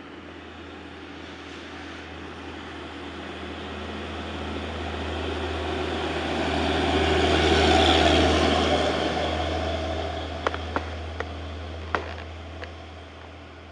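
A heavy truck passing close by: its engine and tyre noise build up to a peak about eight seconds in, then fade away, over a steady low hum. A few sharp clicks come near the end.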